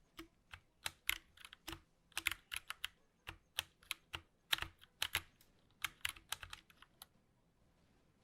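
Typing on a 60% mechanical keyboard: irregular, quick key clicks, several a second, that stop about seven seconds in.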